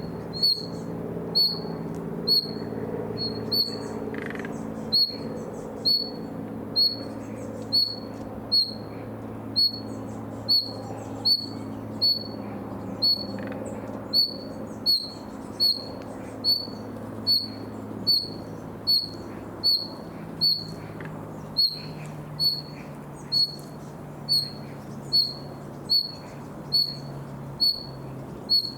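A nightingale repeating one short, high note over and over, about one and a half times a second, over a steady low hum.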